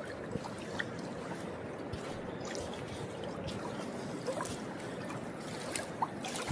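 River water flowing and trickling along the bank: a steady rush with a few small clicks.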